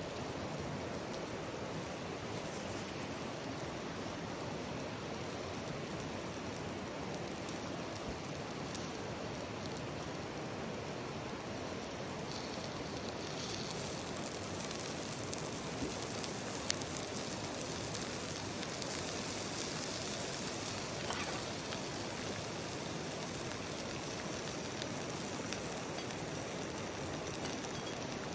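Steady rushing noise of a mountain stream flowing. About halfway through a higher hiss joins it, and there are a couple of sharp crackles.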